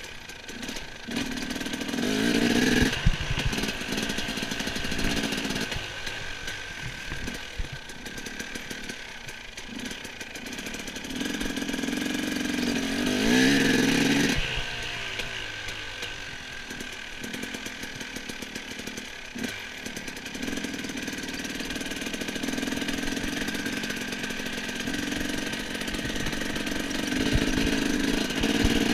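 Motocross bike engine being ridden, its revs rising and falling, loudest about two to three seconds in, again around thirteen to fourteen seconds in, and near the end.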